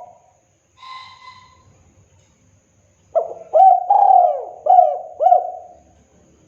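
Spotted dove (tekukur) singing its cooing song: a loud phrase of about five low, hooked coo notes, starting about three seconds in. A faint short whistled note comes about a second in.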